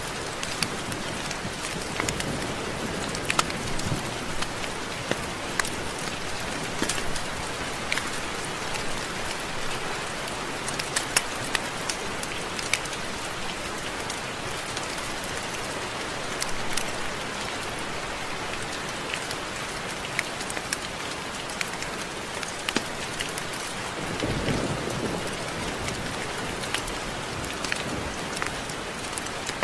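Steady rain falling, a constant hiss with many close drops ticking sharply on a surface. About 24 seconds in, a soft low rumble swells briefly.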